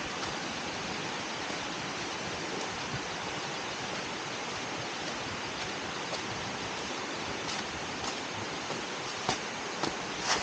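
Steady rush of water from a waterfall and stream, with a few sharp clicks near the end.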